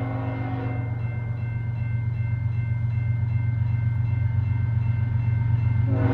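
Diesel freight locomotives' horn sounding a chord and cutting off about a second in, then sounding again near the end. Under it the locomotives' engines run with a steady low drone, growing louder as the train approaches.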